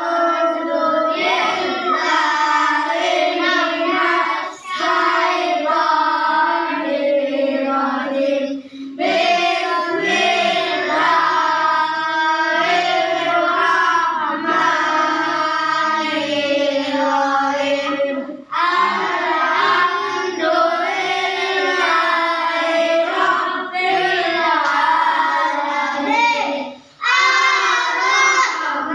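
Children's voices reciting the Quran in a melodic chant, held and bending notes, with short breath pauses a few times.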